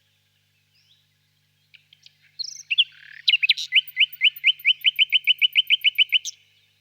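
Nightingale singing one phrase. A few separate introductory notes lead into a fast, even series of identical sweeping notes, about six a second, which stops abruptly.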